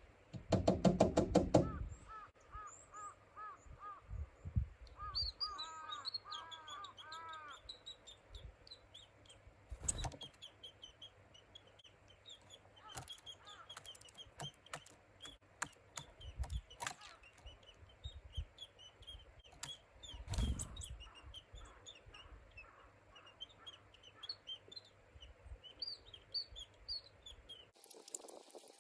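A handheld twist bird call squeaked rapidly for about a second and a half at the start. Small wild songbirds then chirp and call back and forth, with several series of repeated notes, and a few sharp knocks sound in between.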